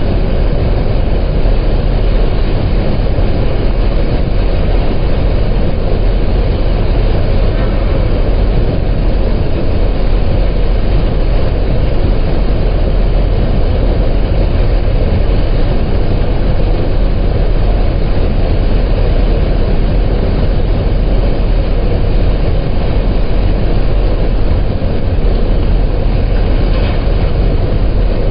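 Boat engine running steadily: a loud, unbroken low rumble.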